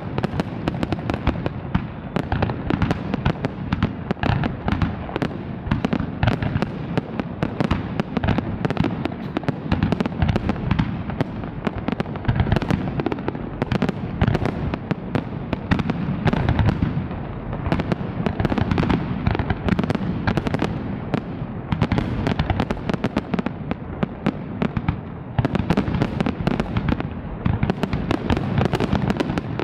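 A large fireworks display: a dense, continuous barrage of shell bursts and crackling bangs with no let-up.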